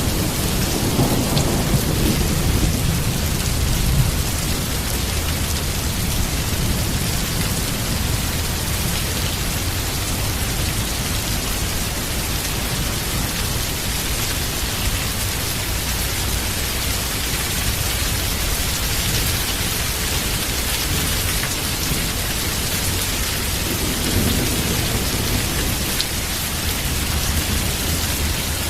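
Heavy rain falling steadily. A low rumble of thunder in the first few seconds fades out about four seconds in, and a weaker rumble swells near the end.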